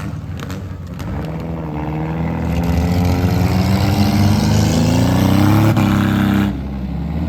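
Demolition derby car engines revving hard, their pitch climbing steadily for several seconds, then dropping off suddenly near the end. A few short knocks come near the start.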